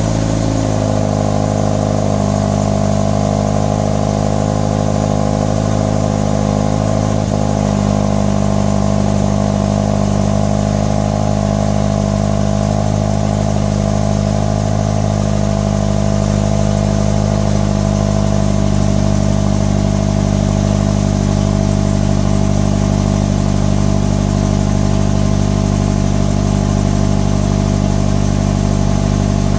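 2015 Subaru BRZ's 2.0-litre flat-four boxer engine idling steadily through its stock exhaust, seconds after a cold start.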